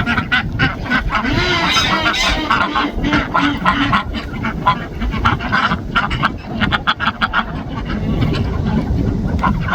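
Domestic ducks calling, many short calls overlapping, with a longer wavering call about a second and a half in.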